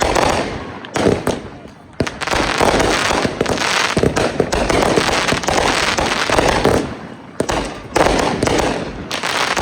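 Consumer fireworks going off: a quick run of bangs with dense crackling between them, and sharp reports about a second in, two seconds in and near the end.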